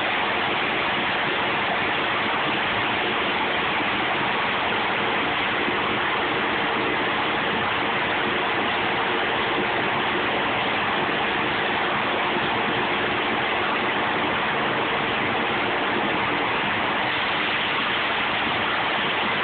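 Truck dumping a load of liquid muck: a steady rush of pouring, splashing liquid, with a faint steady machine hum underneath.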